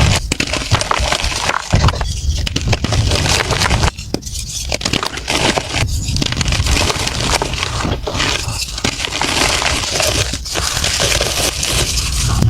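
Blocks of gym chalk being crushed and crumbled: a dense, continuous run of crunching crackles.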